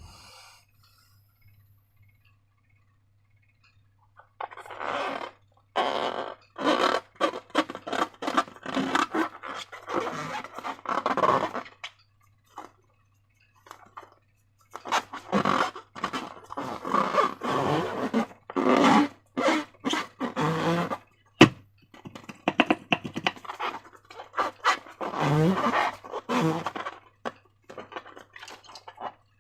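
Slime being squished and worked by hand, giving irregular wet squelching and scraping sounds in bursts after a few seconds of quiet, with one sharp click partway through.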